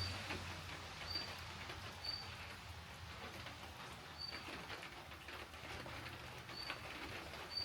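A small bird calling short, high chirps, one every second or two, over faint scattered ticks.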